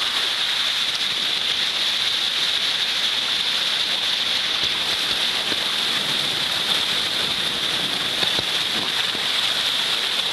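Flash-flood water pouring into a slot-canyon pothole and filling it, a steady unbroken rush of water.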